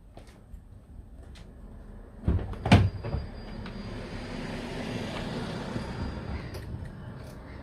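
Two heavy knocks like a car door or bonnet shutting, then a steady hiss with a faint high whine lasting a few seconds before it fades.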